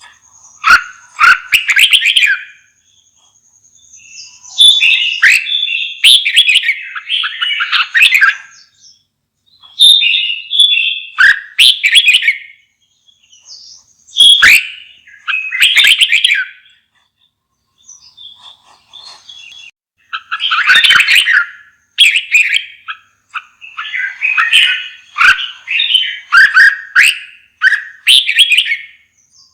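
Red-whiskered bulbul singing: loud, quick warbled phrases in bursts every second or two, with short pauses between them and a quieter spell about two-thirds of the way through.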